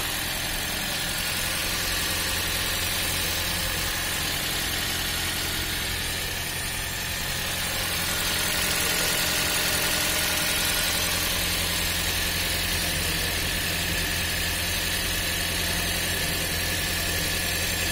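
Toyota Corolla Fielder Hybrid's 1.5-litre four-cylinder petrol engine idling steadily, heard from outside the car, swelling slightly about halfway through. It runs smoothly with its freshly cleaned EGR valve, the P0400 EGR fault cleared.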